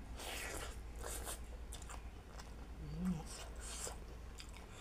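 Close-miked chewing and lip-smacking of a mouthful of rice and roast chicken eaten by hand, with a run of wet mouth clicks. A brief low vocal sound comes about three seconds in.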